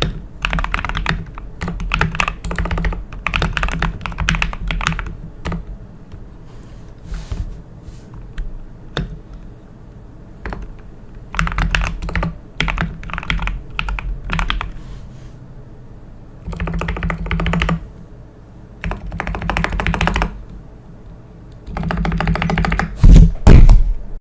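Typing on a modified NZXT Function mechanical keyboard with lubed linear switches: runs of quick keystrokes in bursts, with short pauses between them. A few louder, heavier key strokes come near the end.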